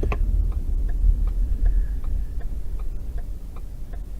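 A car's indicator relay clicking steadily, a little over two clicks a second, over the low rumble of the car's engine and road noise, which dies away as the car slows to a stop.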